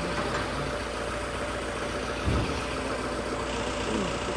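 Vehicle engine idling steadily, with a brief low thump about two seconds in.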